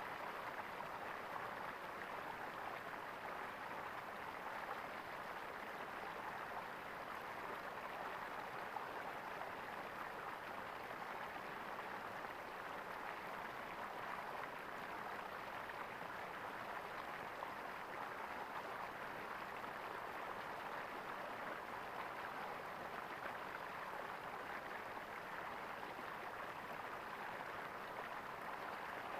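Water gurgling and flowing in a steady, even rush.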